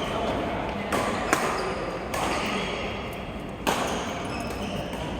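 A few sharp, irregularly spaced hits or knocks, about three in five seconds, over a steady background murmur.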